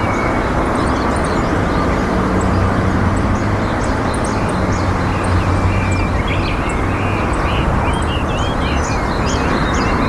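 Steady loud outdoor rumble, with a low engine-like hum swelling through the middle, and many small birds chirping in short high notes over it.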